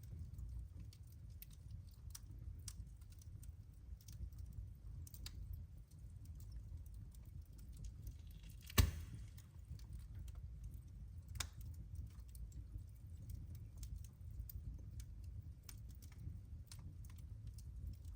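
Wood fire crackling: irregular sharp snaps and ticks over a steady low rumble of the burning fire, with one loud pop about nine seconds in and a smaller one a couple of seconds later.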